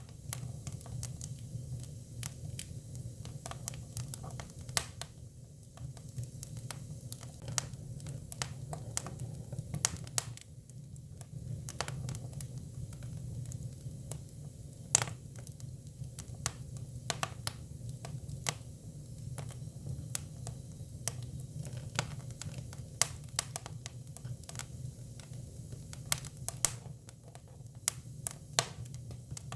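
Hinoki cypress firewood burning: irregular sharp crackles and pops over a steady low hum.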